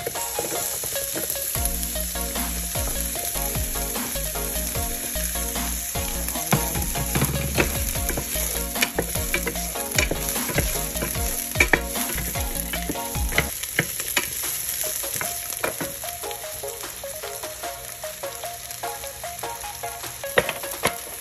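Chopped onion and garlic sizzling in hot oil in a nonstick pan, stirred with a wooden spoon that clicks against the pan now and then.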